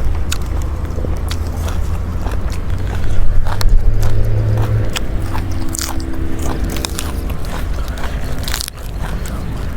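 A person biting and chewing crunchy food close to the microphone, a run of short crunches and clicks. A steady low hum runs underneath, with a droning tone joining it for a few seconds in the middle.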